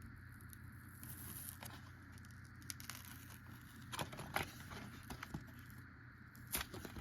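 Faint handling of a die-cast toy car's blister package: plastic and cardboard rustling and crinkling, with a few sharp light clicks from about four seconds in and again near the end as the package is opened.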